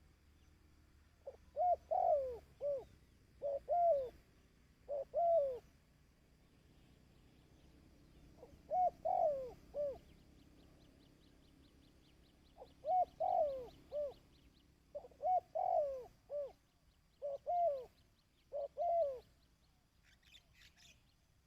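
Spotted dove cooing: short phrases of a few low, curving coo notes, repeated in groups with pauses of a few seconds between them.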